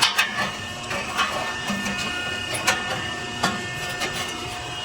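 Exhaust-shop workshop noise: a steady mechanical hum with a high whine, broken by several sharp metallic clicks and knocks.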